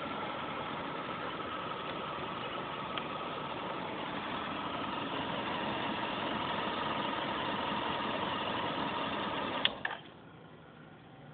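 Honda VFR1200F's V4 engine idling steadily. Just under ten seconds in there is a sharp click and the engine cuts off, leaving only a faint hiss.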